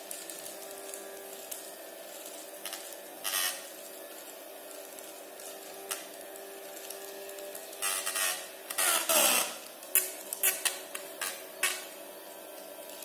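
Small battery-powered DC motor and fan of a homemade water-bottle vacuum cleaner running with a steady hum. Short bursts of rattling and crackling sound over it, once about three seconds in and several times between about eight and twelve seconds.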